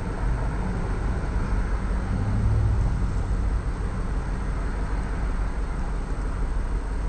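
A 1999 Ford Expedition's 4.6L V8 idling roughly with a misfire in cylinder number 5, a steady low running sound that pulses unevenly.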